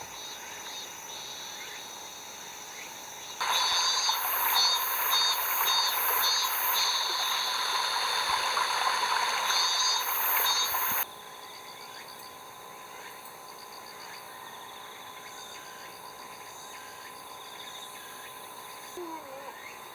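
Insects chirping and trilling steadily in a regular pulse. From about three seconds in, a much louder, denser chorus with a faster pulsing chirp takes over for about seven seconds, then cuts off abruptly.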